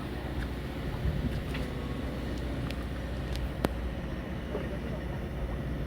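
A fishing boat's engine running steadily, a low hum, with a few faint clicks over it.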